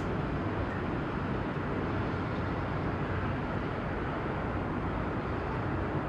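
Steady outdoor harbour ambience: an even low rumble with hiss and no distinct events.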